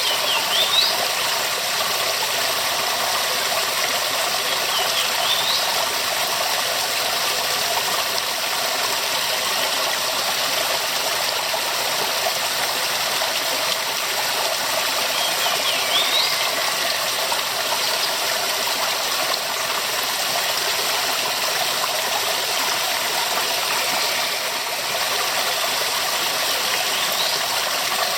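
Waterfall: a steady, even rush of falling water. A few faint short rising whistles come through over it now and then.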